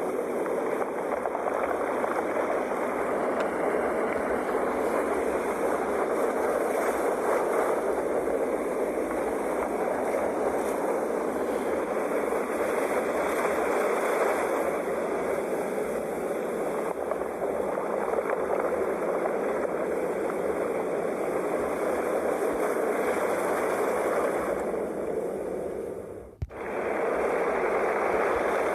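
Ocean waves washing steadily onto a shore, a continuous rushing surf that swells and eases slowly. It cuts out abruptly for an instant about two seconds before the end, then resumes.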